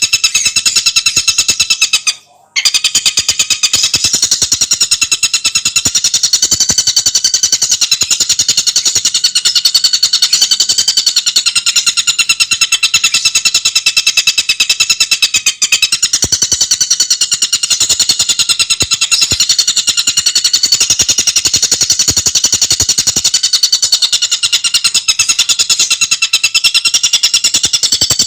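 Tengkek buto bird singing a fast, unbroken, high-pitched rattling trill of tightly packed notes, with a brief gap a couple of seconds in.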